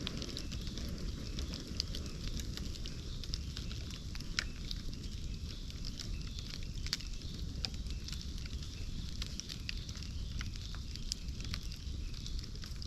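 Bonfire crackling, with frequent irregular sharp pops over a steady low rumble.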